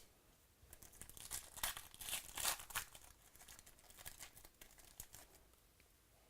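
A trading-card pack's wrapper being torn open and crinkled by hand. The crackling is densest about one to three seconds in, then thins to scattered crackles and stops a little after five seconds.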